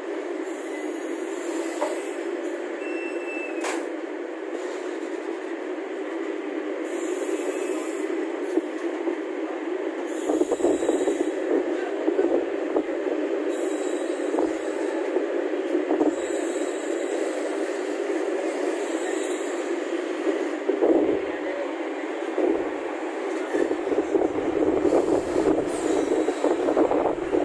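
Passenger train running on track: a steady rumble, joined from about ten seconds in by irregular low knocks.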